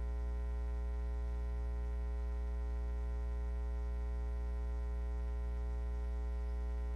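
Steady electrical mains hum with a thin buzz of higher overtones, unchanging throughout: hum on the recording's audio line.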